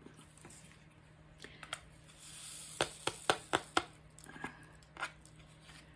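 Crafting supplies being handled: a soft plastic rustle, then a quick run of five sharp clicks about a quarter second apart, and a few fainter clicks near the end.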